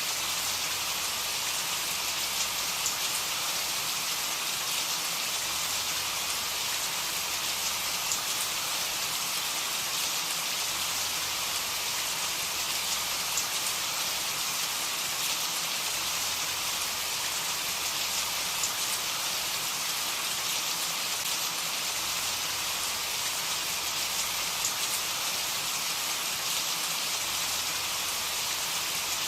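Steady rain falling: an even hiss with small, sharp drop ticks scattered through it.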